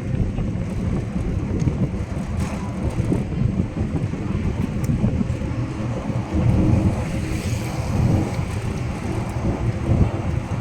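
Ride aboard an open electric tourist train: a steady low, uneven rumble of the train running, with wind buffeting the microphone.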